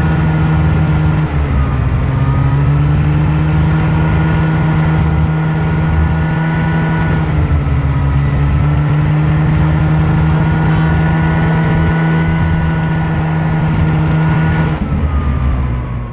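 Snowmobile engine running steadily at speed, its pitch dipping briefly twice, then winding down and stopping near the end.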